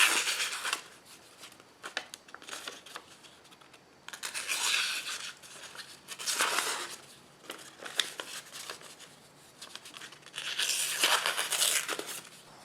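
Handling of the leather scabbard and dagger: four bursts of scraping and rustling, with scattered light clicks between them.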